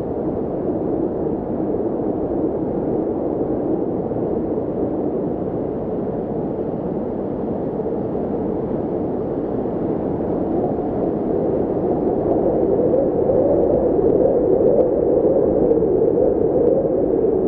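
Steady, muffled rushing noise with no beat or tune, swelling slightly louder near the end.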